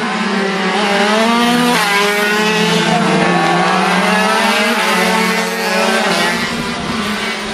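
Several 50cc two-stroke racing motorcycles running hard at high revs on track, their overlapping engine notes dipping and climbing as they shift gear and pass.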